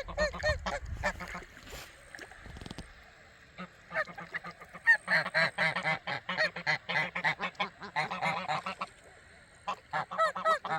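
A flock of waterfowl calling: many short, nasal calls in quick overlapping series, coming in three bouts with a lull after the first.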